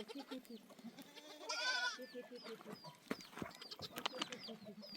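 A goat gives one quavering bleat about a second and a half in. Short high chirps repeat throughout, and a few sharp clicks come near the end.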